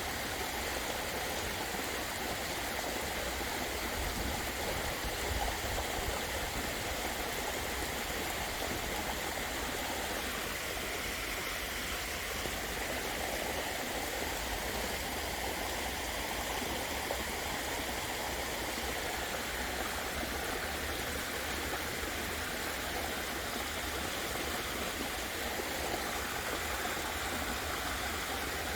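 Waterfall running, a steady, unbroken rush of falling and splashing water.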